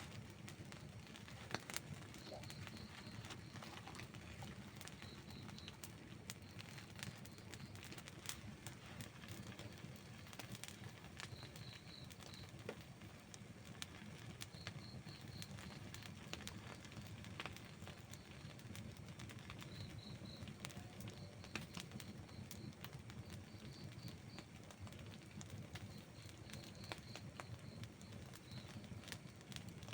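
Outdoor wood fire burning, with frequent sharp crackles and pops of burning wood over a steady low rumble. Short runs of faint high chirps recur throughout.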